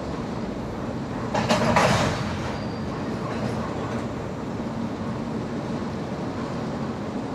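Train running on the rails: a steady engine and rolling rumble, with a short, loud burst of clanking or hissing noise about a second and a half in.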